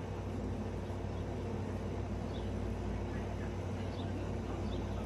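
Steady low background hum with a few faint, short bird chirps scattered through the second half.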